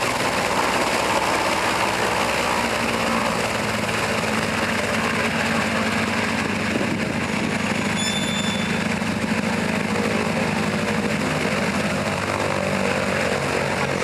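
Antonov An-2's nine-cylinder radial engine and propeller running steadily at low power on the ground.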